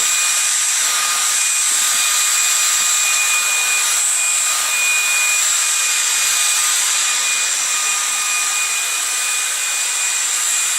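LG CordZero A9 cordless stick vacuum running steadily: a loud rush of air with a thin, high motor whine.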